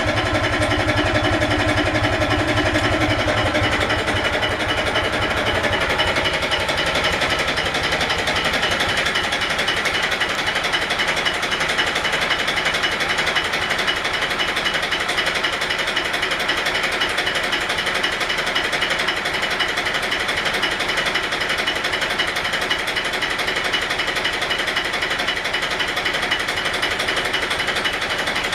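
Yamaha YDX28 boat's engine running steadily. About five seconds in, the low rumble drops away, leaving a higher, even running sound.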